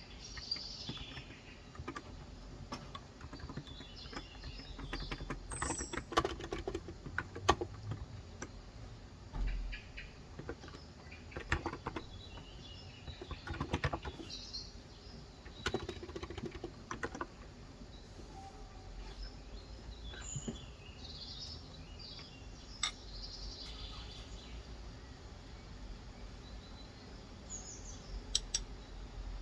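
Typing in irregular bursts on a Cox Endeavor electrostatic capacitive (Topre-style) keyboard with light 35 g switches, with pauses between bursts. Birds chirp now and then in the background.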